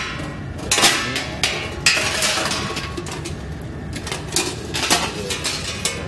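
Dishes and food containers being handled in a ship's galley: several sharp clatters and knocks, over a steady low hum.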